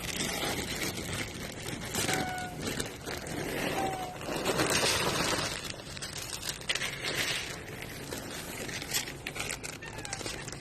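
Small cat or kitten giving a few short, slightly falling mews, about two, four and ten seconds in, over rustling, crinkling noise.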